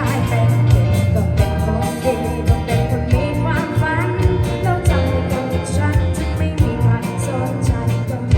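A band playing a pop-rock song, with a singer over bass and a steady drum beat.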